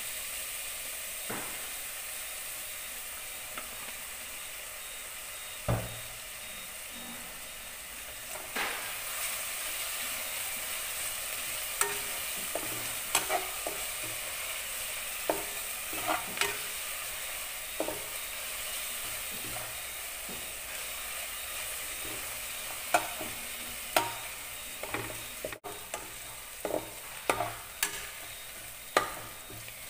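Sliced onions sizzling in hot oil in an aluminium pot, with a metal spatula scraping and clinking against the pot as they are stirred. The clinks come now and then at first and more often near the end.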